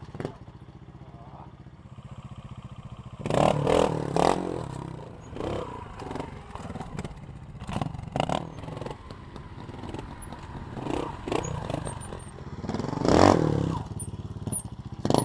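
Montesa Honda 4RT trials motorcycle engine running at a low idle, blipped hard several times as the bike hops onto rocks, the loudest burst near the end. Short clattering knocks come from the bike landing on stone.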